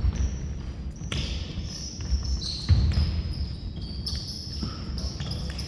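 Basketball game on an indoor court: a ball bouncing with dull thumps, mixed with short high-pitched squeaks typical of sneakers on a hardwood floor, in a large echoing hall.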